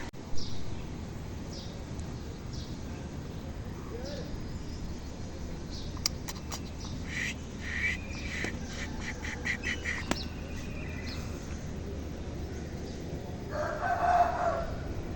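Farmyard ambience: birds chirping in short runs, and a rooster crowing once near the end.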